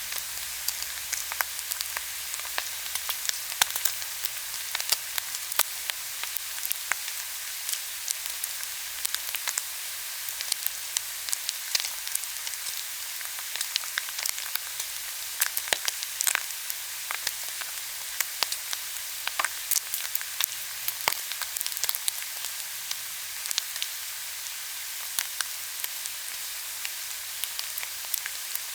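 Pork belly sizzling on a hot grill, a steady hiss with frequent irregular pops and crackles of spitting fat.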